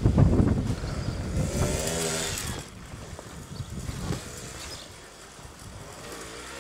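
Small two-stroke quad bike engine revving hard for the first couple of seconds. It then drops back to a quieter, steadier running sound.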